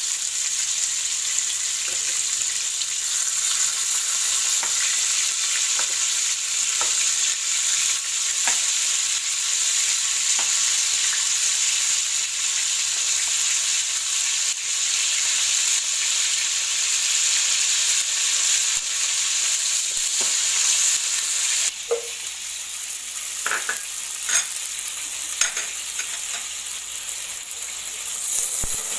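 Chicken pieces shallow-frying in oil in a non-stick pan: a steady sizzle, with light taps and scrapes of a metal spatula as the pieces are turned, one side already browned. About three-quarters through the sizzle drops and a few clinks of cookware being handled follow.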